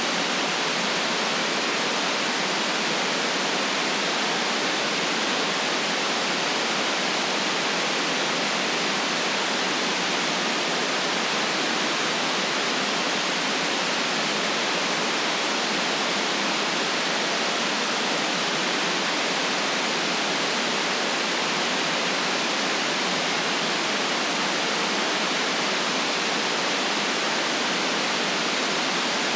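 Steady electronically generated white noise: an even, unchanging hiss.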